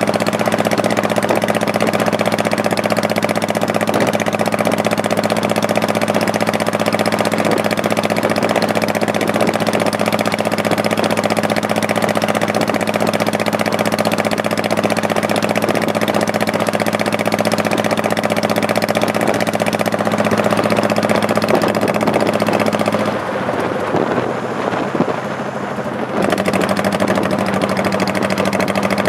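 Honda Shadow Spirit 1100's V-twin engine running steadily under way. About 23 seconds in the engine note drops away for roughly three seconds, then comes back at the same steady pitch.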